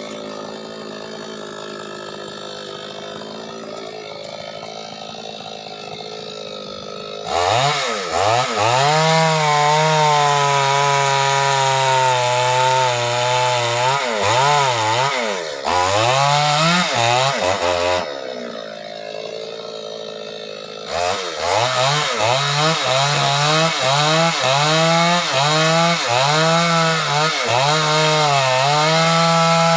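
Two-stroke chainsaw idling, then revved up and cutting wood about seven seconds in, its engine pitch dipping again and again as the chain bites. It falls back to idle a little past the middle, then revs and cuts again with repeated dips in pitch.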